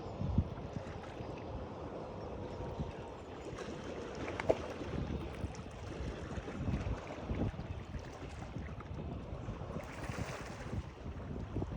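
Moving water with wind gusting on the microphone, and a sharp knock about half a second in and again about four and a half seconds in.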